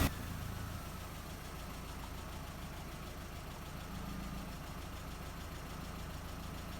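Volkswagen 1.8T turbocharged inline-four engine idling steadily on its first run after a head and head gasket replacement; its hum grows slightly fuller about four seconds in.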